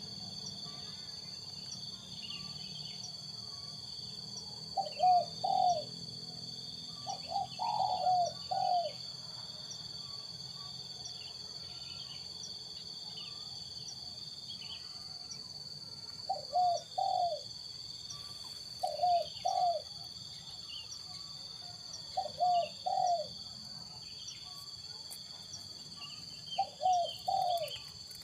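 Spotted doves (tekukur) cooing in short phrases of two or three notes, repeated every few seconds.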